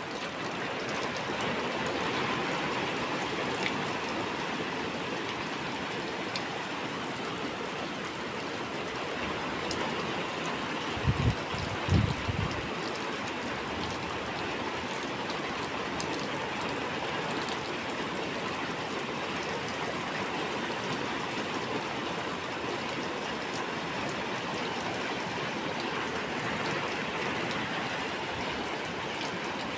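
Heavy rain pouring down steadily during a thunderstorm. About eleven seconds in there are two or three brief low thumps.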